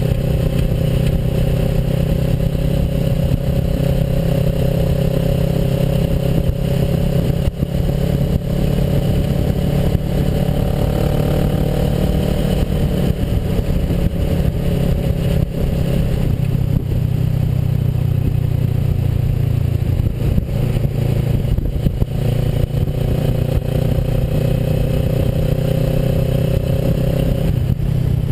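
Kawasaki Versys motorcycle engine running steadily while riding a dirt road, with continuous rough road noise underneath; the engine note shifts about halfway through.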